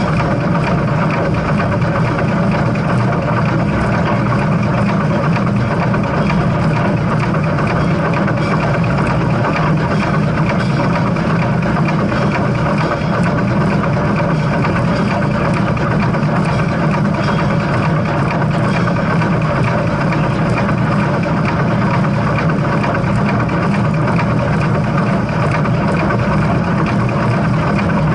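Steam train running with a steady low rumble and no distinct exhaust beats.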